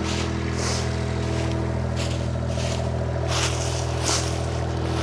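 Diesel engine of a Kymron XTL 30 mini skid steer idling steadily, with a few short scuffing noises over it.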